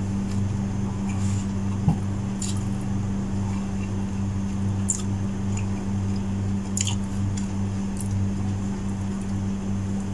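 Wet chewing and lip-smacking of a man eating rice and chicken hearts with his fingers, with a few sharp mouth clicks, over a steady low hum.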